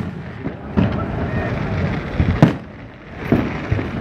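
Fireworks shells bursting: several sharp bangs, the loudest a little past halfway, over a steady rumbling haze from the display.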